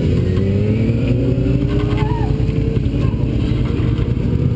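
Vehicle engine at speed on a race track, heard onboard: its note climbs steadily as it pulls through a gear, then drops about three seconds in as the driver shifts or lifts, with heavy wind and road noise underneath.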